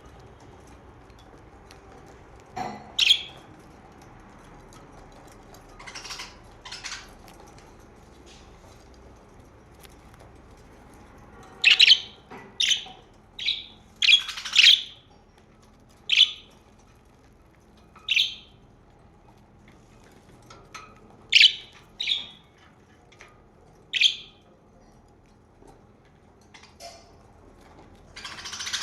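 Pet budgerigars giving short, scattered chirps, a dozen or so, with a quick run of them in the middle.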